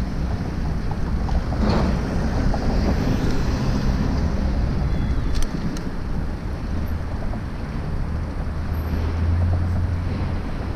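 Wind rushing over the microphone of a moving bicycle, a steady low rumble with street traffic beneath it. A couple of short clicks come about halfway through, and a low engine-like drone swells near the end.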